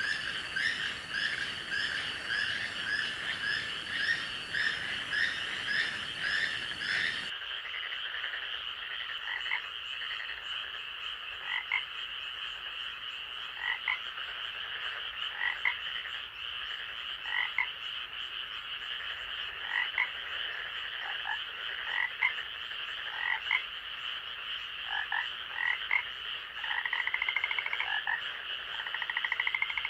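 Night chorus of frogs croaking over a steady high-pitched drone. A quick run of calls, about two a second, stops abruptly some seven seconds in. Scattered single calls follow, and a fast trill starts near the end.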